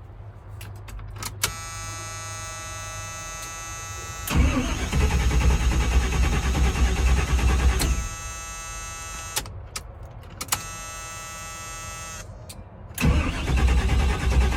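An old army truck's engine cranking on the starter in two tries, about four seconds and then a second bout starting near the end, without catching. Each try is led in by a steady electric whine with many overtones lasting a few seconds. The engine is getting no fuel, and the plugs stay dry after cranking.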